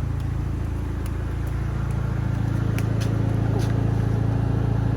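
Fiat Punto Abarth's 1.4-litre turbocharged 16-valve petrol engine idling steadily, with a few light clicks.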